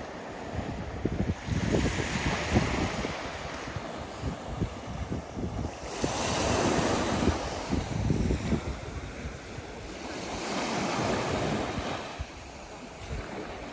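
Black Sea surf: waves breaking and washing up the beach, surging three times about four seconds apart, with wind buffeting the microphone.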